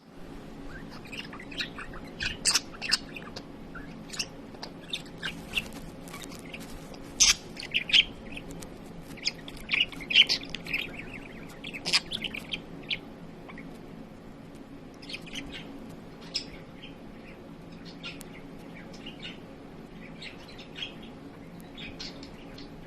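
Budgerigar chirping and chattering in quick runs of short tweets, busiest in the first half and thinning out to scattered chirps later, over a steady low background hum.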